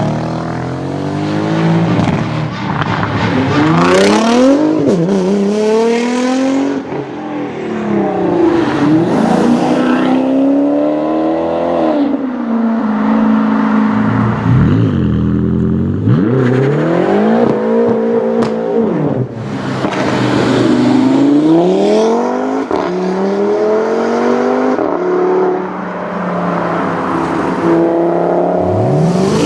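High-performance car engine accelerating hard again and again, its pitch climbing and then dropping sharply at each gear change.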